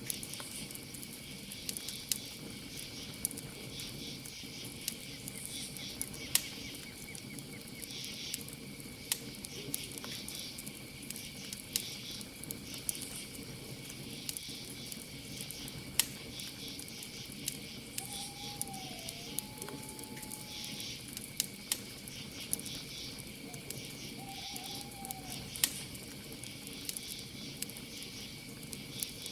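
Campfire crackling with frequent sharp pops, over a steady trill of crickets. Two short owl hoots are heard a little past the middle.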